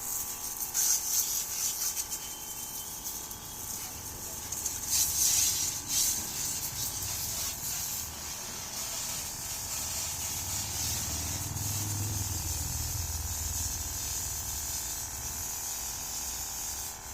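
Water spraying from a 12 V electric pressure washer's nozzle, a steady hiss that surges louder about a second in and again around five to six seconds in. A low hum, likely the pump motor, comes up in the second half.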